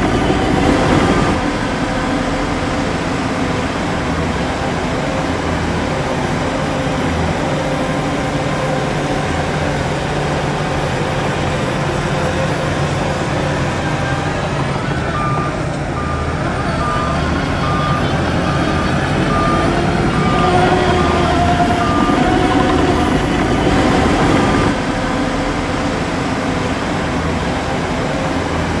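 Diesel engines of heavy earthmoving machines running under load, with a reversing alarm beeping steadily about twice a second through the middle stretch.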